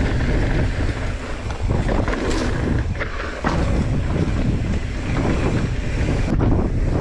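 Wind roaring on the microphone of a mountain bike riding fast downhill, with tyre and bike rattle over rough trail and a few sharp knocks about two and three seconds in.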